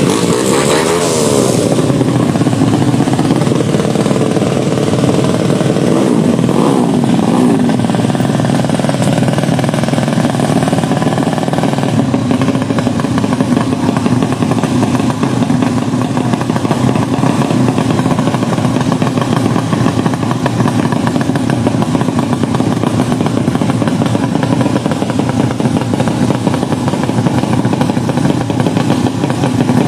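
Tuned underbone racing motorcycle engines running loud at high revs. The pitch swings up and down a few times in the first seven seconds or so, then holds a steady, continuous drone.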